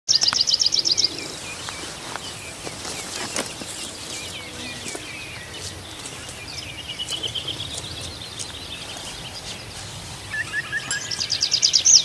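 Several songbirds singing: a loud fast run of high notes at the start, scattered chirps, a trill about seven seconds in, and a louder rapid series building near the end.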